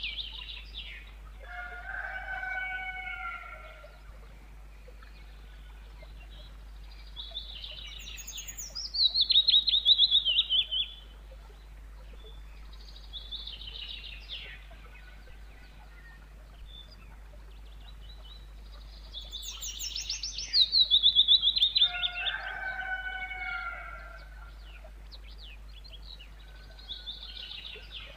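Willow warbler singing: a soft, sweet phrase of quick notes that falls down the scale, repeated every ten seconds or so, with fainter phrases in between. Lower slurred calls from another bird come twice, just after the loud phrases.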